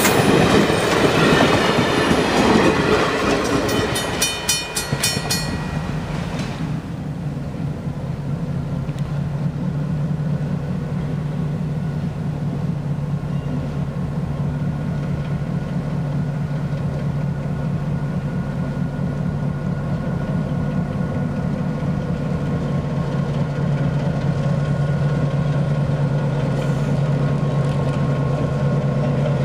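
Railroad cars rolling by with clattering wheels for the first several seconds, then giving way to the steady low drone of an EMD GP7 diesel locomotive's engine idling.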